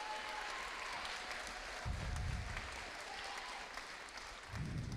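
Audience applauding. Two dull low thuds sound under the clapping, about two seconds in and near the end.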